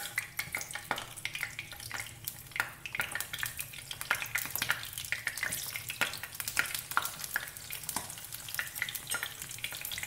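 Masala-and-rice-flour-coated cauliflower florets shallow-frying in hot oil, a steady sizzle with many irregular crackling pops as pieces are dropped into the pan.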